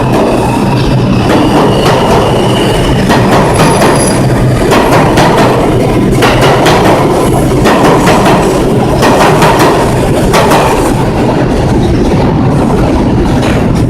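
New York City subway train (2 express) running along the platform, a loud rumble with rapid wheel clatter over the rail joints. A high steady wheel squeal sounds over it for the first few seconds.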